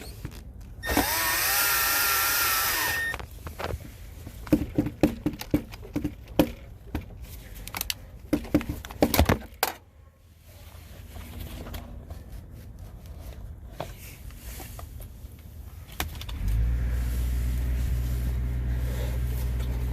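A cordless drill/driver runs for about two seconds, its whine rising in pitch as it drives in a contactor mounting screw. Then come several seconds of sharp clicks and knocks from handling the parts, and near the end a steady low hum starts.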